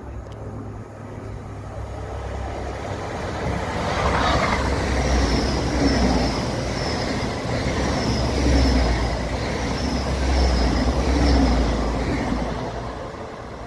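Great Western Railway Intercity Express Train passing along the platform line. Its low rumble builds, holds loud for about eight seconds with a rhythmic clatter repeating about once a second, then fades away.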